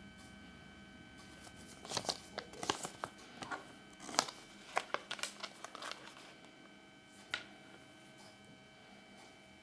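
Thin wrapper crinkling and tearing by hand, as when the foil of a Kinder Surprise egg is torn off: a flurry of sharp crackles for about four seconds, then one last crackle, over a faint steady hum.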